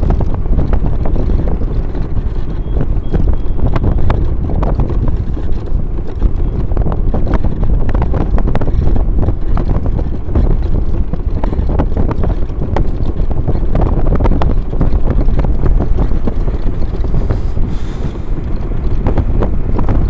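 Heavy wind buffeting the microphone: a loud, steady low rumble with frequent crackles.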